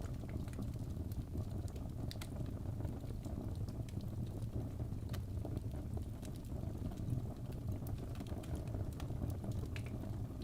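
Wood fire burning in a fireplace, crackling with frequent small, irregular pops over a steady low rumble.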